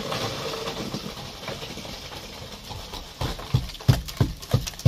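Last bucket of concrete tipped into column formwork, a rough rushing scrape, then from about three seconds in a run of sharp knocks, roughly three a second.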